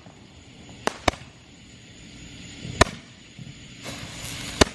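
Handheld Roman candle firing: four sharp pops, irregularly spaced, with a hissing burst just before the last and loudest pop.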